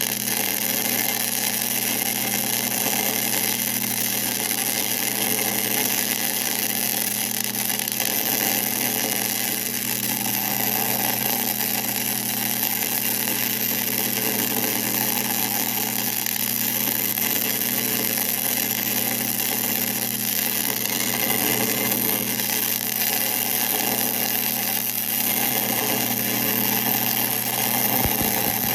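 1966 LeBlond geared-head lathe running steadily, a constant machine hum and gear whine with steady noise above it and no change in speed.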